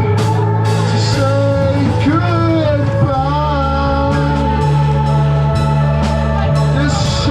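Live band playing a slow rock song, with a sung vocal line over held bass notes; the bass moves to a new note about three seconds in.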